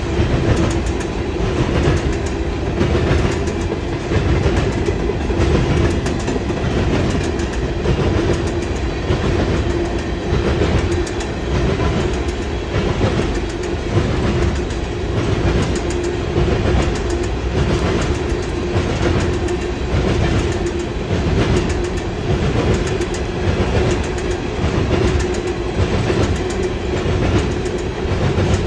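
Freight train cars rolling past, their wheels clicking over the rail joints in a steady, even rhythm, with a steady hum underneath.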